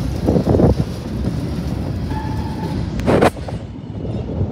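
CSX coal train of hopper cars rolling past, a steady rumble of wheels on the rails mixed with wind on the microphone. A brief steady tone sounds about two seconds in, and a short loud rush of noise comes just after three seconds.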